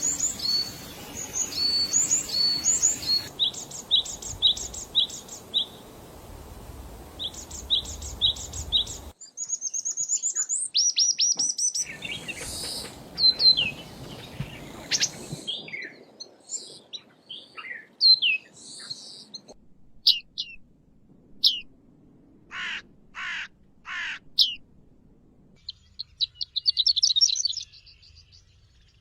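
Songs and calls of several different birds, one recording spliced after another with abrupt changes every few seconds. First come repeated short high whistled notes, then rapid chirps. A few harsh drawn-out calls follow, and a fast trill near the end.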